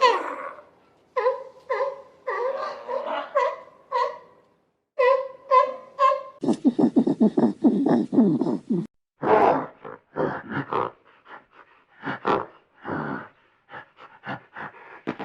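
Animal calls: a run of short repeated calls, then from about six and a half seconds in a long pulsing low grunt lasting a couple of seconds, followed by a series of short rough grunts.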